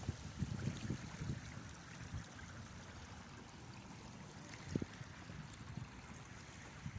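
Seawater running and washing over the flooded waterfront, a steady rushing of water. Low gusts of wind knock on the microphone in the first second or so and once more briefly about five seconds in.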